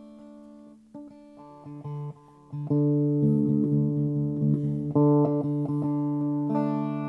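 Lap steel guitar playing long, sustained notes in an instrumental fill of a country song, over bass guitar; the backing fills out and grows louder about two and a half seconds in.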